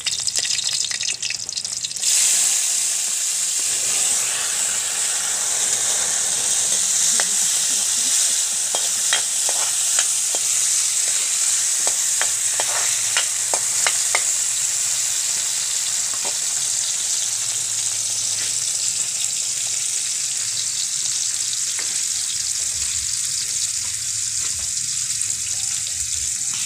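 Garlic and chopped tomatoes sizzling in hot oil in a steel wok, the sizzle jumping louder about two seconds in and then holding steady. A metal ladle stirs, scraping and clicking against the wok through the first half, then the stirring thins out.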